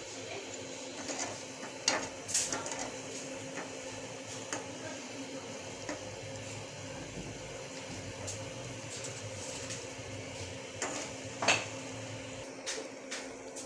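Lentil fritters (dahi bara) sizzling as they deep-fry in hot oil in a steel pan, with a metal ladle clinking and scraping against the pan as they are turned. A few sharp clinks stand out, the loudest about two seconds in and near the end.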